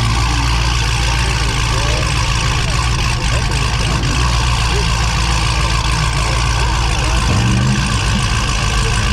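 A vehicle engine idling loudly and steadily, with a brief rev about seven seconds in.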